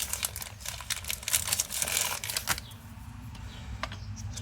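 Rustling and crinkling of something being handled for about two and a half seconds, then quieter with a few light clicks.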